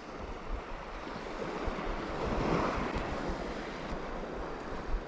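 Sea waves washing, swelling to a peak about halfway through and then easing off.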